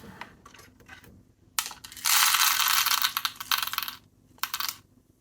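Roasted coffee beans poured into a small plastic specimen bottle: a few scattered single-bean clicks, then a dense clatter beginning about a second and a half in, loudest for about a second and dying away over the next two.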